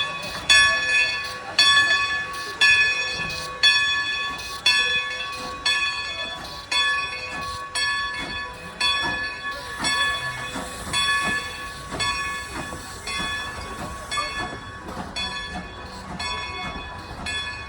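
Bell of Strasburg Rail Road No. 90, a 2-10-0 steam locomotive, ringing steadily about once a second and slowly growing fainter, with a brief hiss of steam near the middle.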